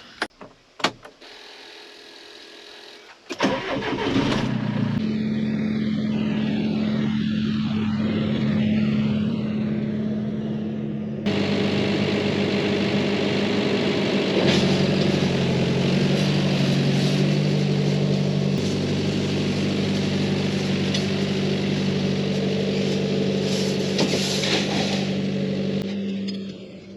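Tractor engine starting about three seconds in after a few clicks, then running steadily. Midway the sound changes abruptly to the engine running louder at a different pitch, and it drops away near the end.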